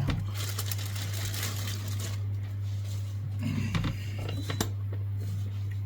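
Kitchen knife clicking against a chopping board as onion is cut, in irregular strokes with a sharper knock near the end, over a steady low hum.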